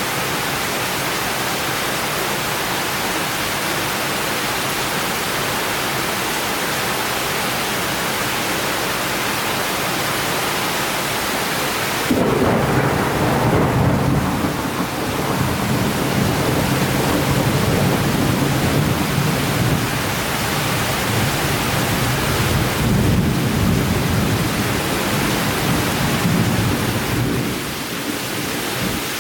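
Steady hiss of summer rain. About twelve seconds in, a long low rumble of thunder starts suddenly, rolls on for roughly fifteen seconds and dies away near the end.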